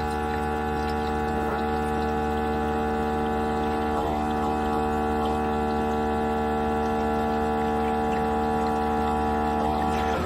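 Keurig K-Mini Plus single-serve pod coffee maker brewing: its water pump runs with a steady hum and a few faint ticks, then cuts off suddenly near the end.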